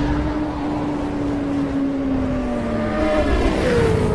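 Motorcycle engine sound effect: a high, sustained engine note that holds steady and then slowly drops in pitch, with another engine tone gliding down near the end.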